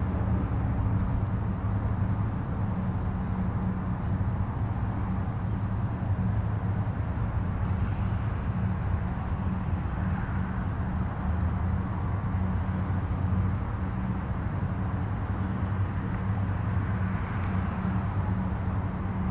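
Distant highway traffic: a steady low rumble of tyres and engines. The hiss swells gently about halfway through and again near the end as vehicles pass closer.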